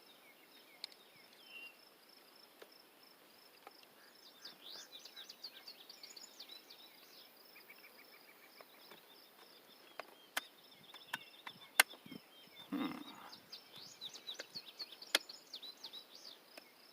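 Outdoor ambience: insects calling steadily in a high pitch, with birds chirping in two spells. A few sharp clicks fall in the second half, the loudest about twelve seconds in, and a short rustle comes just after it.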